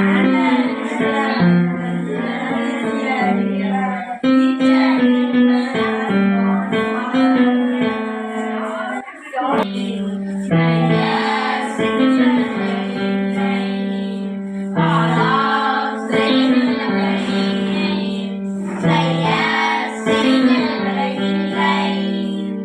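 Music: an electronic keyboard score plays a melody over held chords, in repeating phrases of about four to five seconds.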